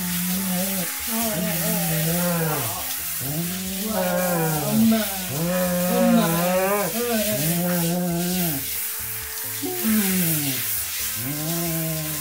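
Water from a handheld shower head spraying onto a wet beagle's coat and the tiled floor: a steady hiss. A melody of background music with repeated rising-and-falling phrases plays over it.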